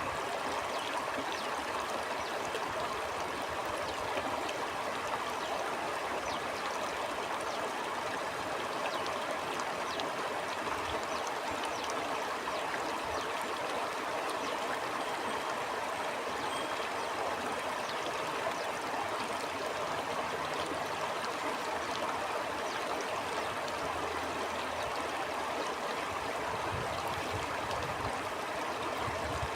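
Stream water flowing steadily over rocks, a continuous rushing and gurgling.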